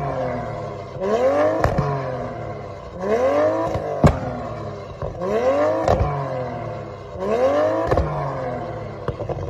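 Car engine revving up and back down in four regular waves, about one every two seconds, with sharp clicks near each peak.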